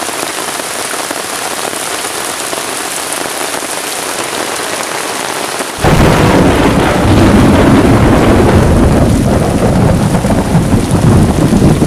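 Heavy rain pouring on a tarp shelter and forest: a steady hiss, then about six seconds in a sudden jump to a much louder, deeper rush of rain.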